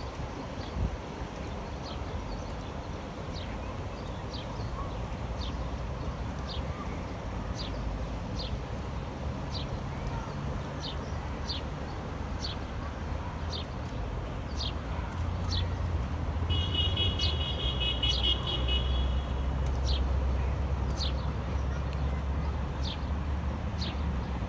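City riverside ambience: a bird repeating a short, high, falling chirp about once a second over a low traffic rumble that grows louder in the second half. About two-thirds of the way through, a pulsing high tone sounds for a couple of seconds.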